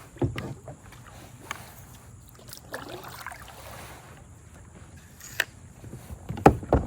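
Pelican Challenger 100 kayak being paddled, with the splash of paddle strokes and a few sharp knocks, the loudest two near the end.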